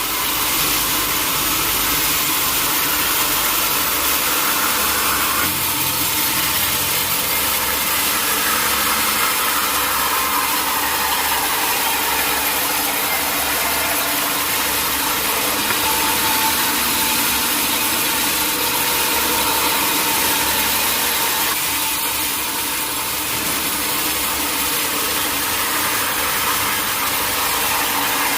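Sawmill machinery running steadily: an engine-driven log saw with a constant mechanical noise and some vibration.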